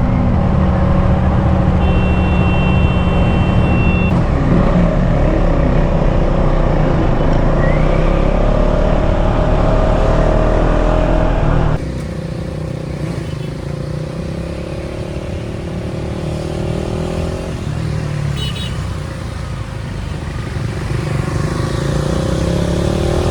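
Motorcycle engine running on the move with heavy wind rush on the helmet mic, its pitch rising and falling with the throttle. The sound drops abruptly quieter about halfway through.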